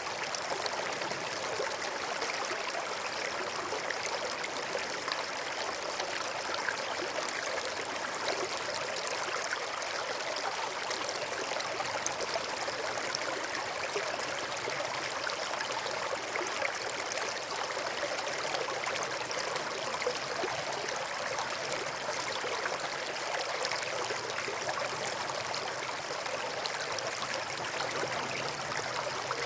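Small brook flowing steadily, an even rush and trickle of running water with no change in level.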